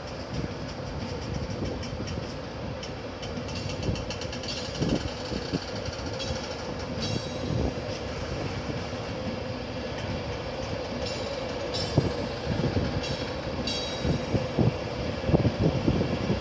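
Class 91 electric train pulling away: a steady electric hum under wheels clicking and clattering over the rail joints and pointwork, the knocks coming faster near the end as it gathers speed.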